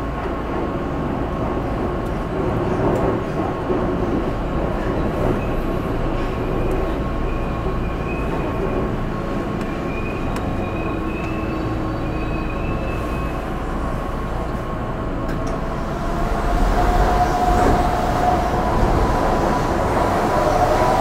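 Keihan 8000 series electric train heard from on board in a tunnel, running noise drawing into a station, with a faint high squeal in the middle. About 16 s in the noise grows louder, with a slowly rising tone.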